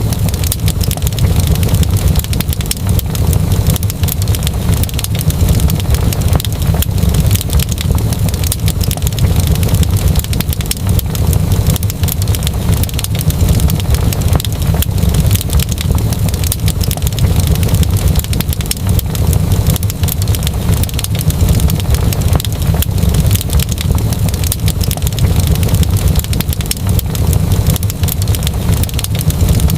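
Wood fire in a fireplace crackling without pause, with dense small pops over a steady low rumble.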